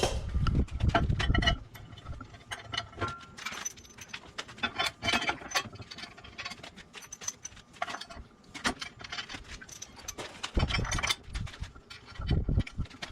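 Irregular light metallic clinks and knocks of steel parts and hand tools being handled, with a few heavier low thuds near the start and again late on.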